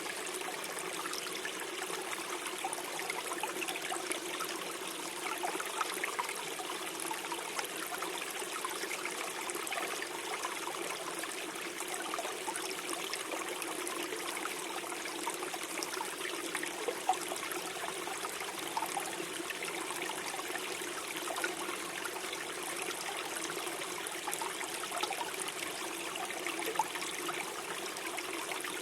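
Small forest stream flowing and gurgling steadily over stones, with many small splashes and trickles.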